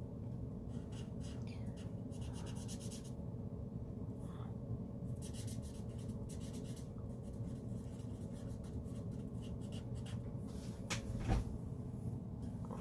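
Marker tip scratching on paper in short back-and-forth strokes while colouring in a stamped image, in irregular bursts of strokes.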